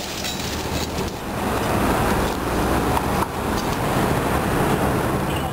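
A motor vehicle's engine running, with steady traffic noise around it.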